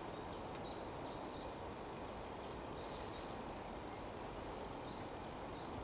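Steady wind noise in woodland, with a few faint, short high ticks near the middle.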